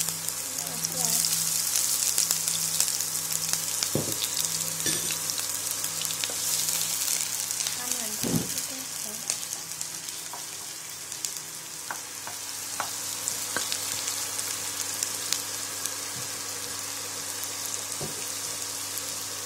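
Chopped onion sizzling in hot oil in a nonstick wok, loudest just after it goes in and easing off a little over the following seconds, with a few knocks of a spatula stirring it against the pan.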